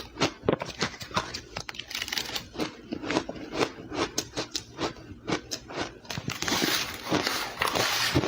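Ice being bitten and chewed close up, with a quick run of sharp crunches. About six seconds in it turns into denser, almost continuous crunching.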